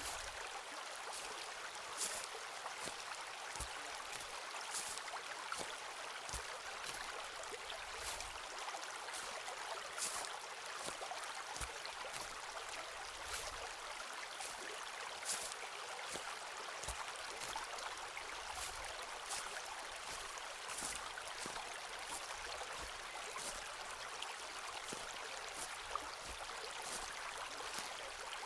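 Footsteps of a person walking a forest trail, one step roughly every second or two, over the steady rush of a stream.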